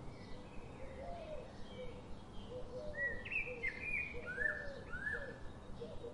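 Birds chirping, with a cluster of short rising and falling chirps about halfway through, over a run of repeated lower short calls and a steady background hiss.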